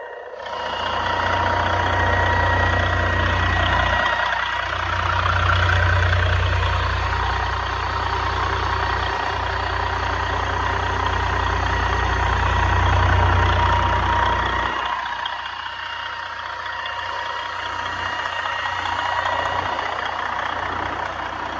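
Detroit Diesel DD15 14.8-litre inline-six diesel engine idling, with a steady high whine over a low rumble. The deep rumble drops away about fifteen seconds in while the whine carries on.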